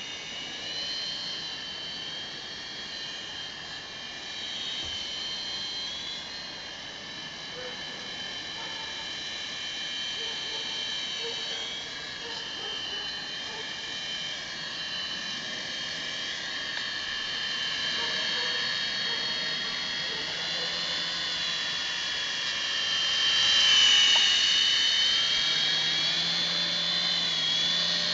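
Toy RC helicopter's small electric motors and rotor blades whining, the pitch drifting up and down as the throttle changes. It grows loudest about three-quarters of the way through.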